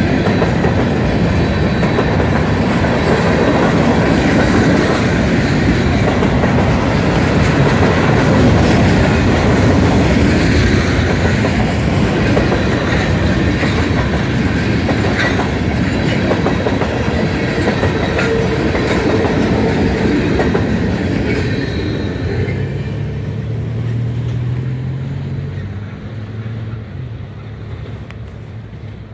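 Freight train of covered hoppers and tank cars rolling past, steel wheels running on the rails with a steady rumble and rattle. The noise falls away over the last few seconds as the end of the train goes by.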